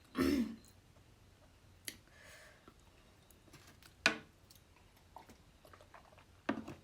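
Close-miked eating sounds: chewing of fish curry with wet mouth clicks and smacks, a few sharp ones spaced a couple of seconds apart. A short vocal noise comes just after the start.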